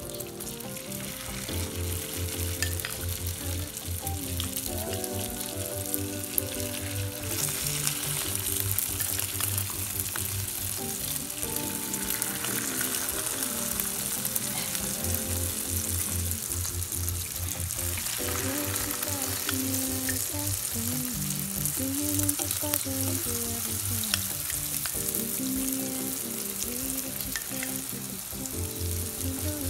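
Potato sticks frying in hot oil in a nonstick pan: a steady sizzle with small pops, growing louder about seven seconds in. Background music plays alongside.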